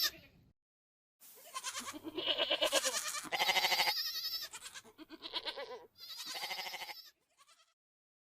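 A goat bleating four times in a row, each bleat wavering in pitch, the calls stopping about seven seconds in.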